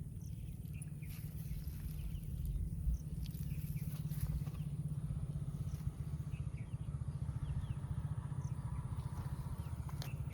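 A small engine running steadily nearby, a low, fast, even putter with no rise or fall.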